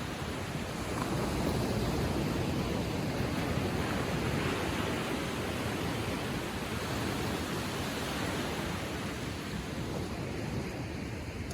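Gentle ocean waves lapping on the shore, a steady surf wash that swells about a second in and eases slightly near the end.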